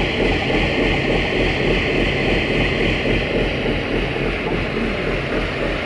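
Mitsubishi Fuso 6D14 six-cylinder diesel engine running steadily on a test run, a loud continuous throb with a low pulse.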